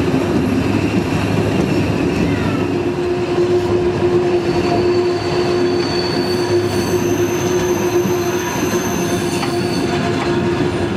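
Running noise of a moving passenger train, heard from a carriage window: a steady rolling rumble, joined from about three seconds in by the wheels squealing in a long steady tone, with higher squeals coming and going in the middle.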